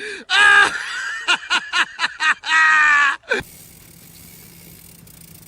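A person laughing in a high voice, with a run of quick short peals between longer held sounds. It cuts off about three and a half seconds in, leaving a faint steady hum.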